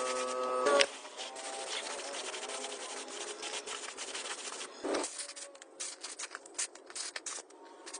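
Irregular rubbing and scraping by hand, with short sharp strokes in the second half. A brief pitched sound sounds in the first second.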